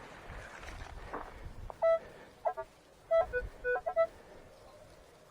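Metal detector beeping over a target as the hole is checked: a run of about six short electronic beeps in the second half, switching between a higher and a slightly lower pitch.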